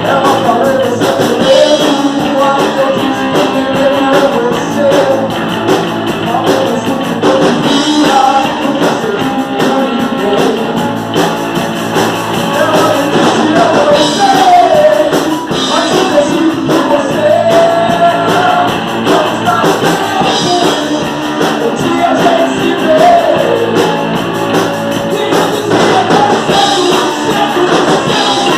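Rock band playing live: distorted electric guitars, bass and drums, with a singer's voice over them.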